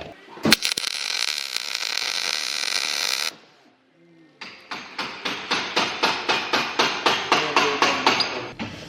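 Metalwork on a bike's brake adapter: a sharp click, then about three seconds of steady hissing that cuts off suddenly. After a short pause comes a run of quick, even strokes, about four a second.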